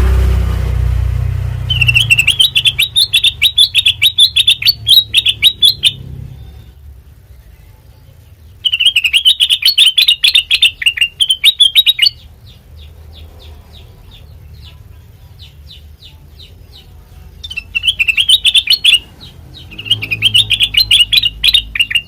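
Kutilang mas songbird singing in bursts of fast, repeated high chirps, several seconds each, with a fainter run of notes between them. A low rumble fades out in the first two seconds.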